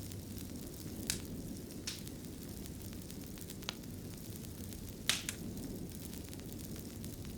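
Wood fire in a fireplace crackling over a steady low rumble, with four sharp pops, the loudest about five seconds in.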